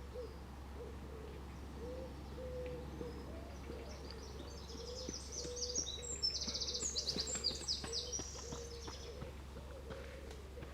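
A songbird sings a rapid, high, trilling song in the middle, the loudest sound. Short, low cooing notes repeat throughout over a steady low hum.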